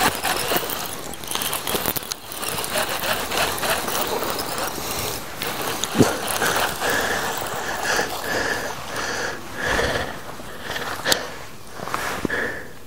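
Fishing reel being cranked to bring in a hooked bass, a rapid run of mechanical clicks. From about halfway a short high tone repeats roughly twice a second.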